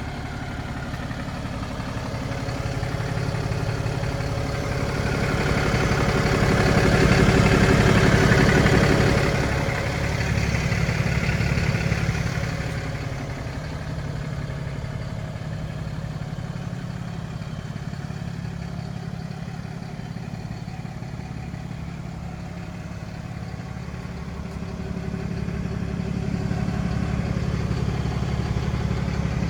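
Ram 5500 heavy-duty truck engine running, swelling louder twice: about a quarter of the way in and again near the end.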